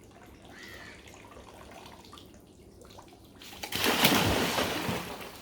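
Water splashing: faint at first, then a loud burst of splashing about three and a half seconds in that lasts over a second.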